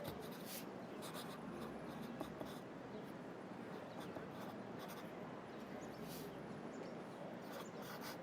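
Pencil scratching across paper in short, irregular clusters of strokes, over a steady hum of city traffic.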